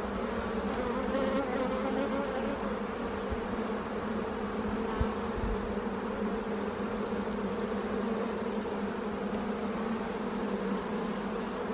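Honeybee colony buzzing in a steady hum from an opened hive while its frames are handled, with a short low bump about five seconds in.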